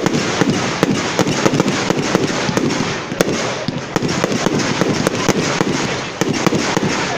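Fireworks going off in a dense, continuous barrage: many sharp cracks and bangs each second over a steady rumble.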